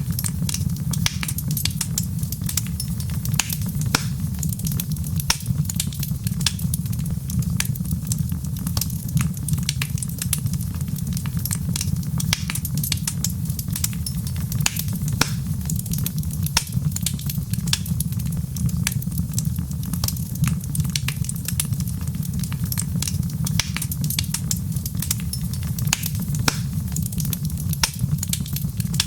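Wood fire crackling, with many irregular small pops and snaps over a steady low rumble.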